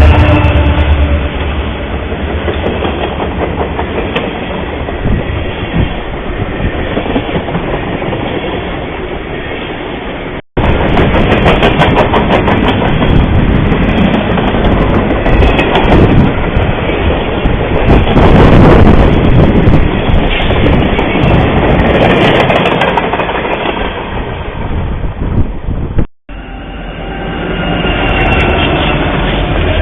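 A train passing close by, its wheels clattering over the rail joints, heard through a trail camera's microphone. The sound cuts off abruptly twice, about ten seconds in and again a few seconds before the end, where separate clips are joined.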